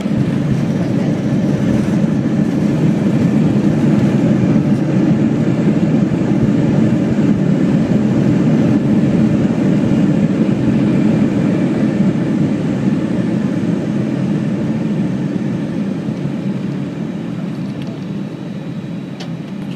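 Jet airliner engines roaring in reverse thrust during the landing rollout, heard inside the cabin as a heavy low rumble. It swells at the start, holds steady, and dies away over the last few seconds as the plane slows toward taxi speed.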